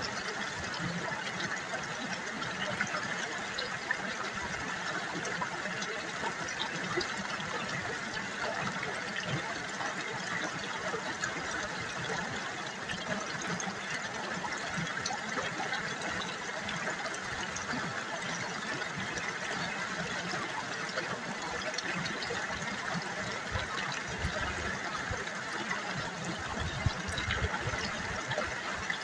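River water babbling and trickling, a steady sound with small splashy flickers.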